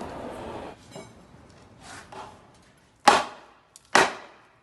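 Old wooden garage door frame being pried off a concrete wall with a crowbar: a few faint knocks, then two loud knocks about a second apart.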